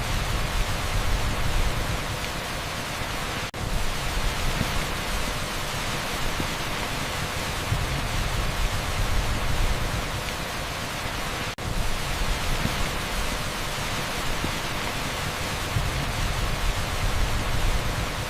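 Heavy downpour on an asphalt street, a steady dense hiss with a low rumble underneath, blended with strong pink noise. The sound drops out for an instant twice, a few seconds in and again past the middle.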